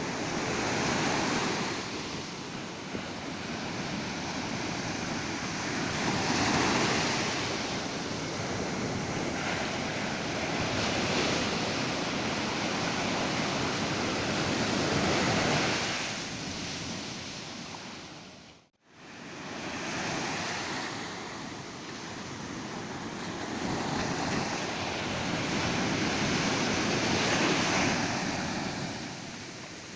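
Ocean surf breaking on a beach, the waves swelling and washing in every four to six seconds. The sound drops out sharply for a moment about two-thirds of the way through.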